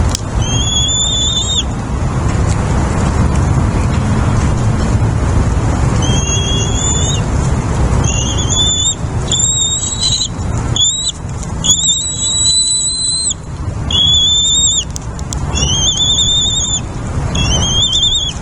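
A bird giving repeated high, thin whistled calls, each slightly rising and about a second long, nine or so in all, over a steady low rumble.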